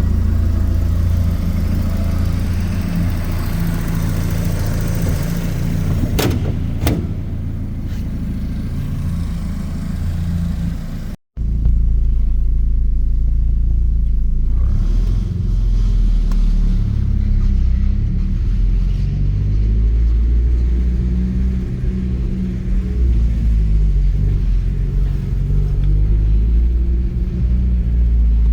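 A Porsche 944's 2.5-litre fuel-injected four-cylinder engine running with a deep rumble, its pitch rising and falling in the second half as it is revved or driven. There are two sharp clicks about six and seven seconds in, and the sound drops out briefly about eleven seconds in.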